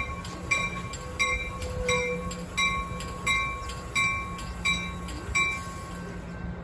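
Amtrak Surfliner passenger train at the station, with a bell ringing steadily at about three strikes every two seconds over a low engine rumble. The bell stops shortly before the end.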